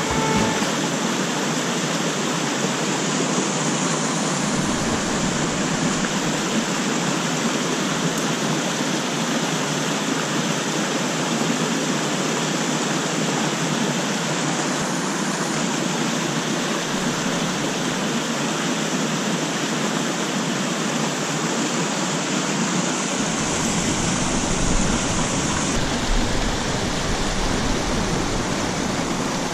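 Mountain stream rushing in a steady, even wash of water noise.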